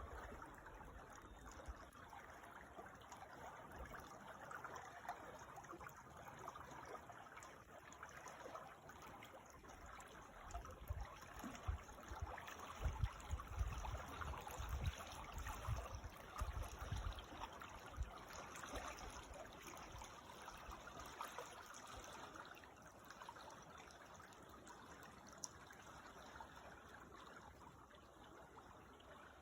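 Creek water flowing and trickling steadily, with irregular low rumbles in the middle stretch.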